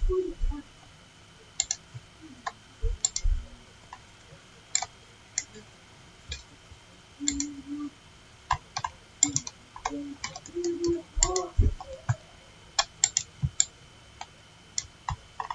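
Irregular clicking of a computer mouse and keyboard, single clicks and short quick runs of them.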